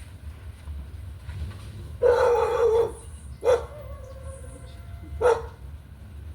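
A dog barking: one drawn-out bark about two seconds in, then two short, sharp barks.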